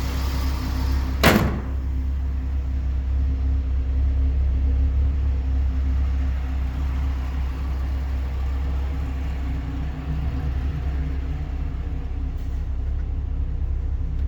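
Dodge Ram SRT-10's 8.3-litre Viper V10 idling steadily with a low rumble. About a second in, a single sharp slam, like a door or hood being shut.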